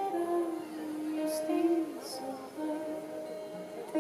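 Live acoustic song: a woman singing long, held notes, with short hissing consonants between them.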